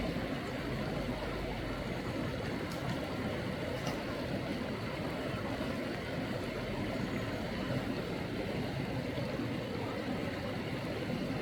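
Steady rush of a flowing valley stream.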